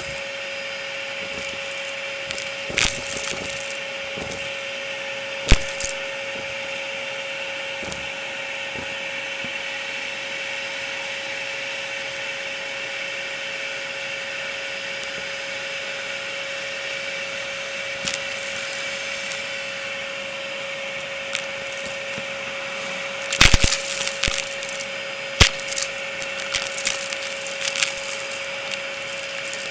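Dyson DC33 upright vacuum running with a steady whine, its brushroll picking up dry debris with sharp crackles and clicks. The crackling comes in a few single snaps and then a dense burst near the end.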